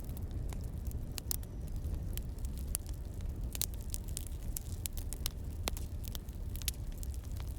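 Wood fire crackling: irregular sharp pops and snaps, a few a second, over a steady low rumble.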